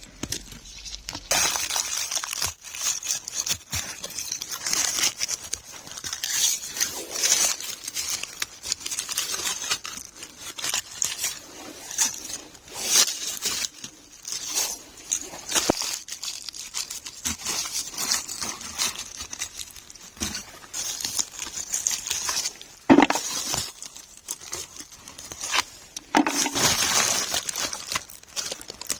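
Frozen forest floor crackling and crunching as it is handled and trodden on while picking frozen wild mushrooms: a dense run of small icy snaps, crinkles and rustles, with a louder knock about two-thirds of the way through.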